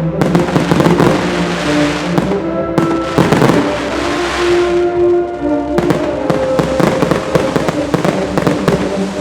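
Fireworks display going off with music playing alongside: a steady run of sharp shell bursts and crackling over held musical tones.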